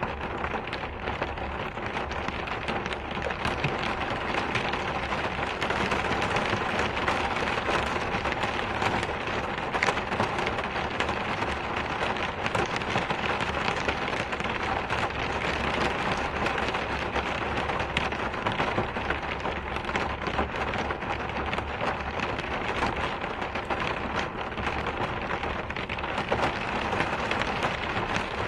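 Steady rain: an even hiss with a dense patter of many small drops.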